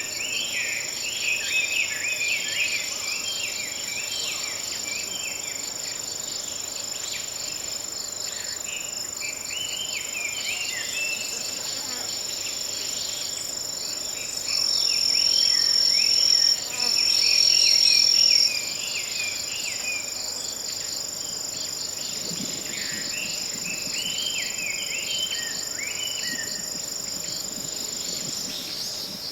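Autumn insects trilling steadily in a high, continuous drone, with scattered lower chirping. Around the middle a louder trill sounds twice, about two seconds each time.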